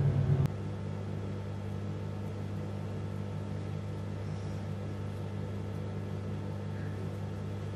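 A louder appliance hum cuts off about half a second in, leaving a steady low electric hum running.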